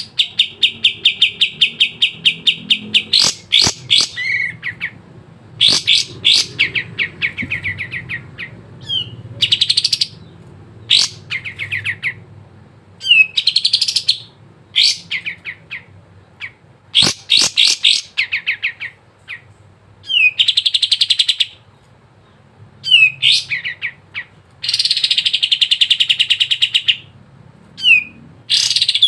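Kapas tembak songbird singing: fast, rattling trills of rapidly repeated high chirps, delivered in bursts of one to three seconds with short pauses between them, mixed with shorter chirps. A few sharp clicks come in between the phrases.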